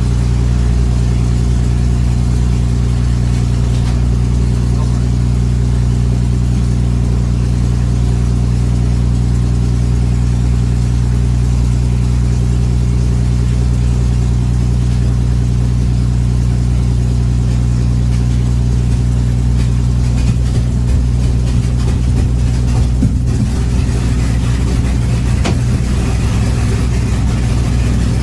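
Avro Lancaster's number two engine, a Rolls-Royce Merlin V12, running steadily after start-up with a deep, even drone. The note turns slightly less even in the last third.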